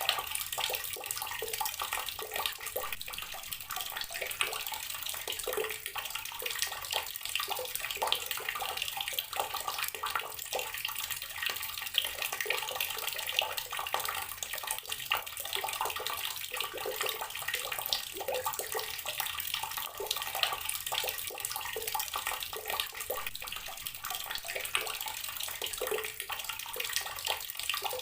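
Water running steadily from an outdoor garden tap and splashing as it falls, a continuous splashing rush with small irregular spatters.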